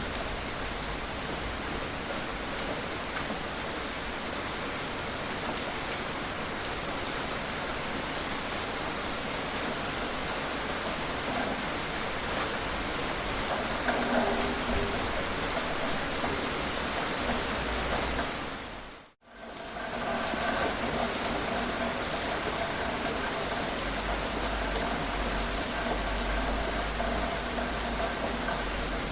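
Steady gentle rain falling, a dense even patter of drops. About two-thirds of the way through it fades out briefly to silence and comes straight back in.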